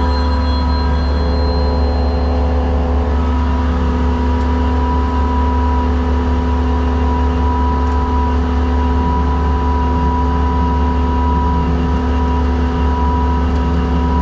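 Skid steer's engine running steadily under load while its winch attachment pulls, with a steady whine over the low engine hum.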